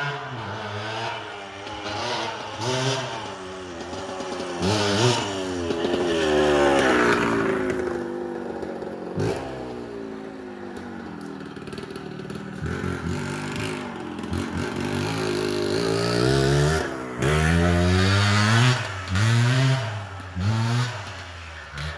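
Yamaha two-stroke motorcycle engine revving hard, its pitch climbing and dropping again and again as the throttle is opened and shut, with quicker, sharper blips in the second half.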